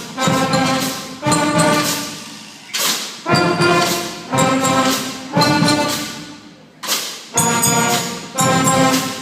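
Fifth-grade school concert band, brass and woodwinds with drums, playing a string of loud accented chords about a second apart. Each chord is struck with a drum or cymbal hit and fades before the next.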